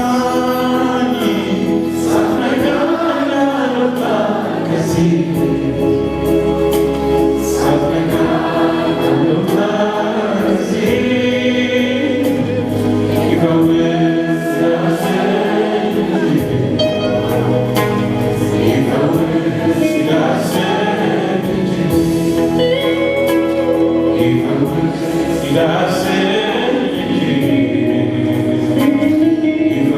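Choir singing a gospel worship song with instrumental accompaniment and a steady percussion beat.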